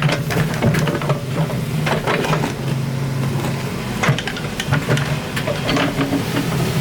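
Excavator's diesel engine running steadily, with frequent short knocks and scrapes from the digging.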